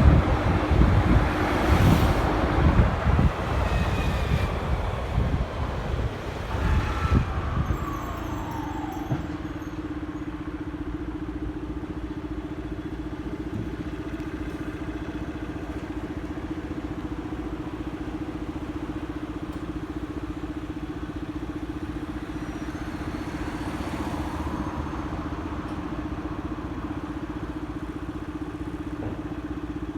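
Motorcycle engine heard from the saddle: for the first several seconds it runs loud and rough with road noise as the engine pitch falls off, then it settles into a steady idle for the rest.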